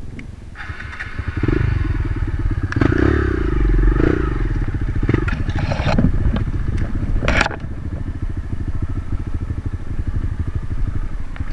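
Dirt bike engine revving hard under load as it climbs a trail, with sharp knocks and clatter along the way. About seven and a half seconds in, the revs drop and the engine runs on at a lower, steady pace.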